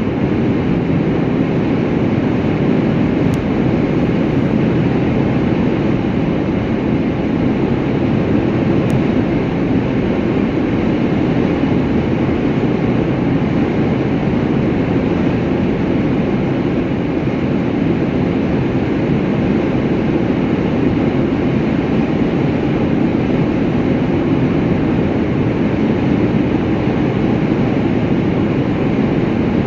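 Steady, unchanging rumble and hiss of a travelling vehicle.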